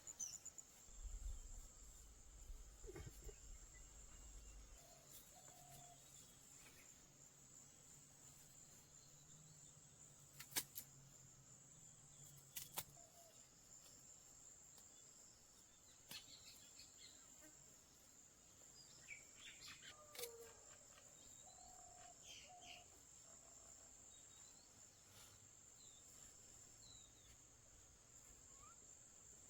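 Near silence with a faint, steady, high-pitched insect trill, and a few faint bird chirps and scattered clicks.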